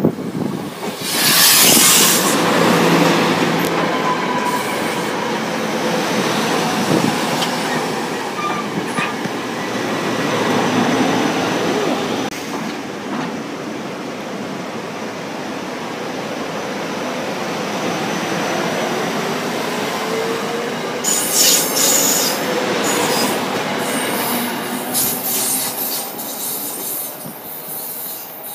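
A SEPTA Silverliner IV electric commuter train running past close by, its wheels running loudly on the rails. The sound dies away over the last few seconds as the train moves off down the track.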